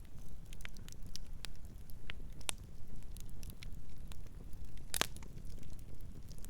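Campfire crackling: scattered sharp snaps and pops over a low steady rumble, with one louder pop about five seconds in.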